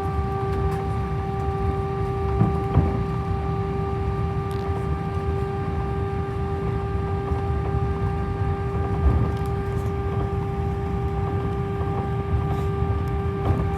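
Airbus A319 cabin noise on the ground during taxi: the engines give a steady hum with a constant tone over a low rumble. A few light knocks come about two to three seconds in and again near nine seconds.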